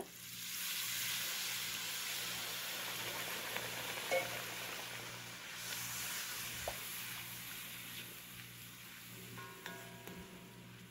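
Water poured into hot oil and frying curry masala in a pot, setting off sizzling that starts suddenly and slowly dies down as the mixture is stirred with a wooden spoon.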